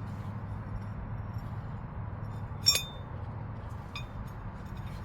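A sharp, ringing metallic clink of a hand tool striking metal about two and a half seconds in, then two lighter clinks near the end, over a low steady hum.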